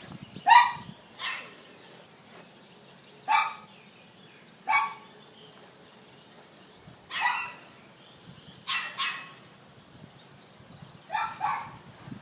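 A dog barking: about nine sharp barks spaced irregularly a second or more apart, a few coming in quick pairs.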